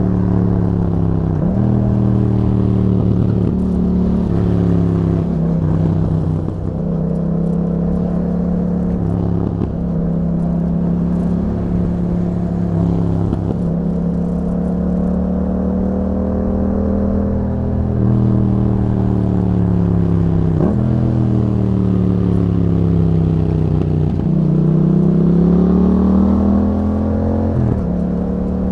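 Yamaha MT-07's 689 cc parallel-twin engine, breathing through an Akrapovic exhaust with a Yahom dB killer, heard from the bike while riding. The engine note climbs and falls repeatedly with the throttle, broken by about half a dozen gear changes.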